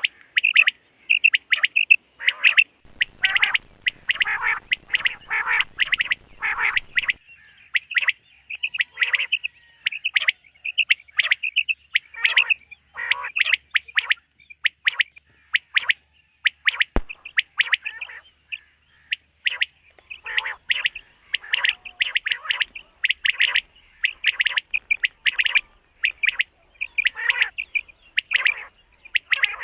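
Common quail calling over and over in short, sharp notes, one phrase after another. A single click comes about halfway through.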